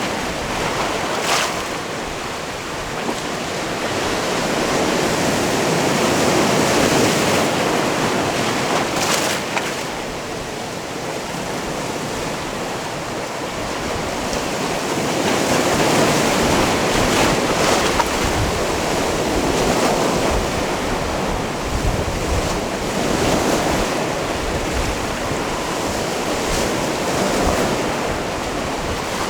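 Sea waves washing in against a stony shore, the surf rising and falling in two slow surges, with a few brief sharp splashes.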